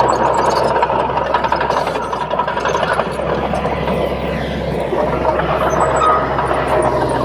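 Komatsu D31P crawler bulldozer working, its diesel engine running steadily with a dense mechanical clatter. A high whine holds steady in the first half, and a lower wavering squeal comes in about five seconds in.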